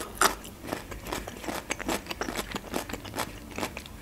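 Close-miked chewing of Turkish pide (meat-topped flatbread), a rapid run of sharp wet mouth clicks and smacks, with one louder click just after the start.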